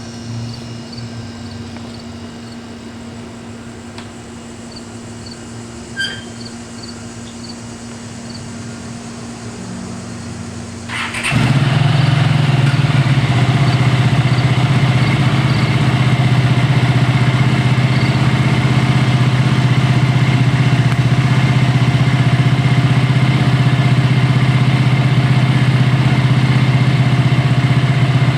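Honda CX500 motorcycle's V-twin engine: a quieter steady hum, then about 11 seconds in the sound jumps suddenly to a loud, steady run that holds to the end.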